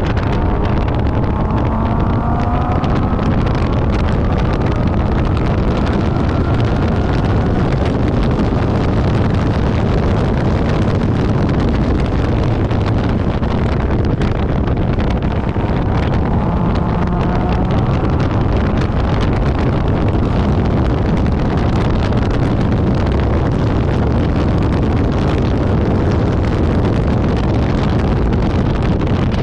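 Infiniti G37S's 3.7-litre V6 engine running hard on track under heavy wind and road noise on the microphone. The engine note climbs in pitch twice, near the start and again about halfway through.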